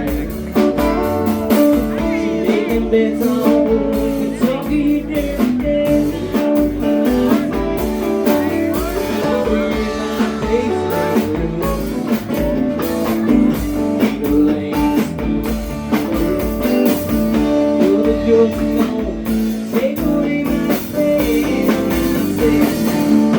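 Live band playing a bluesy rock song: guitars over drums, with some singing.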